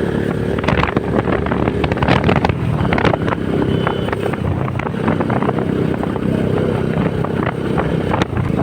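Honda CBR150R's single-cylinder four-stroke engine running steadily while riding, with wind buffeting the microphone.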